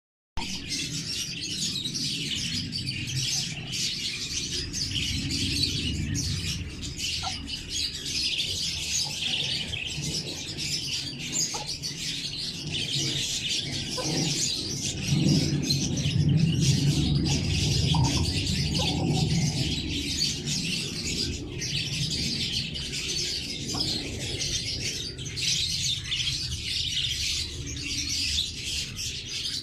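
Many pet lovebirds chirping and chattering continuously in a dense, overlapping flock chorus. A low rumble runs underneath and swells in the middle.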